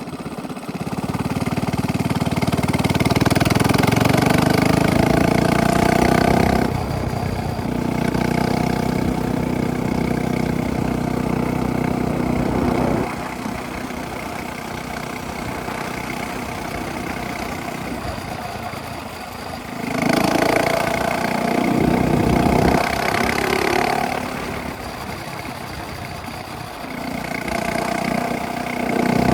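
Minibike engine running through a straight-pipe exhaust, revving up and easing off several times as it is ridden, with sharp climbs in pitch about a third of the way in and again near the end.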